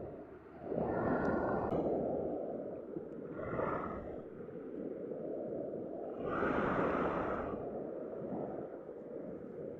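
Black Sea waves washing onto the shore: three swells of rushing surf, roughly every three seconds, over a steady background wash.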